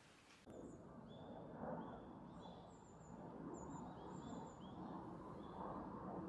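Small birds chirping: many short, high chirps repeated throughout, faint over a low background hum.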